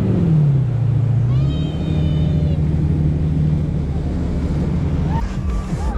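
Motorboat engine running, its pitch falling as the throttle eases off during the first second and a half, then holding steady before changing again about five seconds in. A brief high-pitched cry sounds over it about two seconds in.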